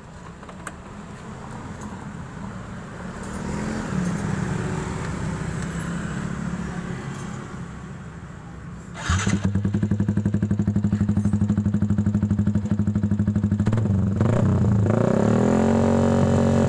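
Yamaha Jupiter MX King 150's single-cylinder four-stroke engine running through a full stainless aftermarket exhaust. It is quieter at first, then jumps suddenly much louder about nine seconds in and idles with a steady pulsing note. Near the end it is revved up and down a few times.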